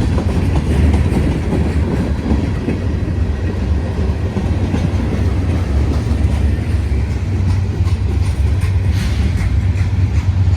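Union Pacific freight train rolling past the crossing: a steady, loud rumble of wheels on rail with a clatter.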